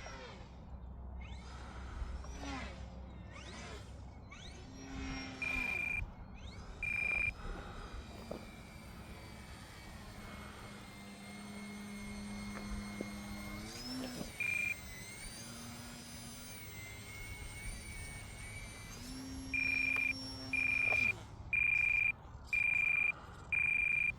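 Electric motor and propeller of a small foam 3D RC plane whining in flight, the pitch rising and falling with throttle. Short, high electronic beeps sound twice in the first half and then about once a second near the end.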